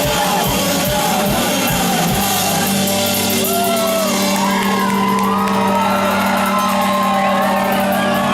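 Live alt-country rock band playing loud: the drums pound for about the first two seconds, then stop, leaving a held low chord ringing while voices whoop and shout over it.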